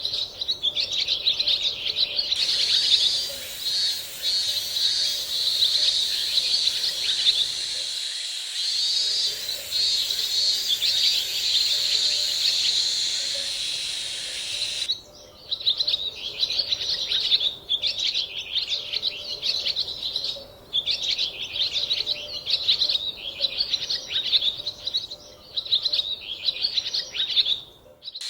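Birds chirping in quick, dense runs, broken by short pauses, with a steady high hiss under them for roughly the first half.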